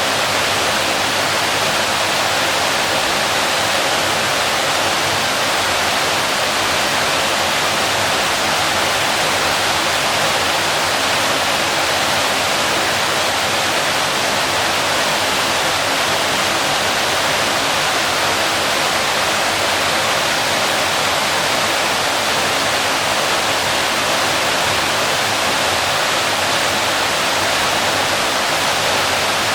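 Waterfall pouring steadily: a constant, even rush of falling water with no change in level.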